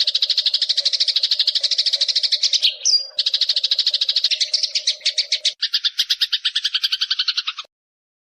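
Recorded songbird 'mastering' audio: a fast, buzzy chattering trill of about ten notes a second, with a brief high whistle about three seconds in. About two-thirds through, the trill changes to a lower, two-toned rattle, then cuts off abruptly near the end.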